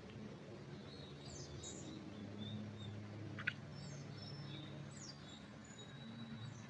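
Small forest birds chirping and twittering in short high notes and thin whistles, over a low steady hum. A single sharp tick about three and a half seconds in.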